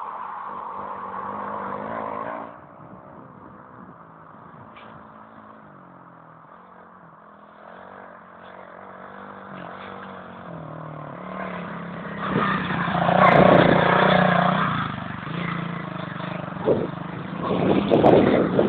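110cc four-stroke pit bike engine running, its pitch rising and falling with the throttle. It drops back about two seconds in and grows much louder from about twelve seconds in.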